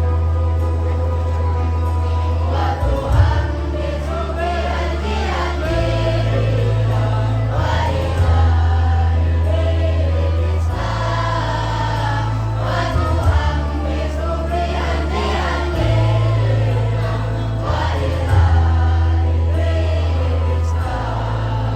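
Choir singing an Islamic shalawat over a musical accompaniment with deep sustained bass notes that change every two to three seconds.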